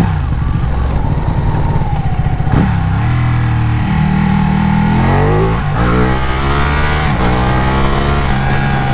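Ducati Panigale's twin-cylinder engine riding along, then accelerating hard. Its revs climb from about three seconds in and dip at gear changes, over wind rush.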